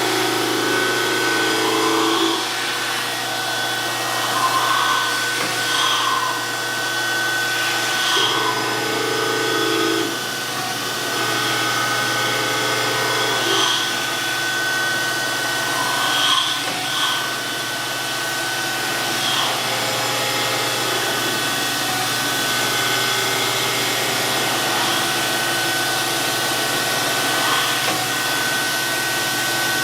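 DoAll surface grinder running, its wheel spinning with a steady high whine while the power-fed table traverses the Kurt vise part beneath it. The sound swells briefly every few seconds as the wheel passes over the work.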